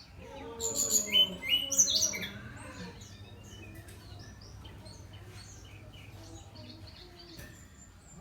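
Brown-chested jungle flycatcher singing: a loud burst of quick, varied whistled notes, some sliding, for about the first two seconds, then quieter scattered chirps.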